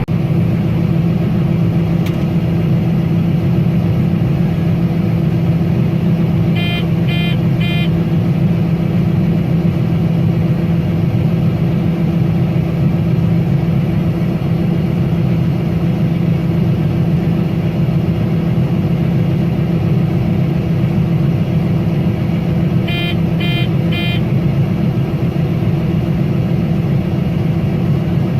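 Combine harvester running steadily while shelling corn, a constant engine hum. An electronic warning beeper sounds four quick beeps about seven seconds in, and four more near the end.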